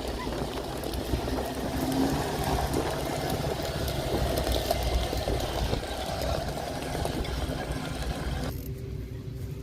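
Steady low rumble of vehicle engines running outdoors, with a general noise haze. The sound changes abruptly, losing its higher end, about a second before the end.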